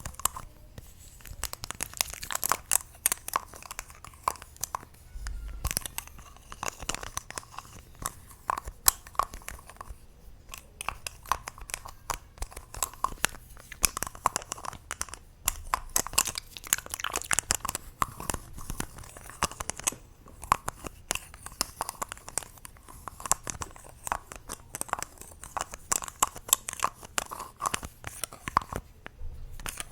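Close-miked ASMR triggers: a dense run of small crackling clicks and taps, with short lulls about ten and twenty seconds in.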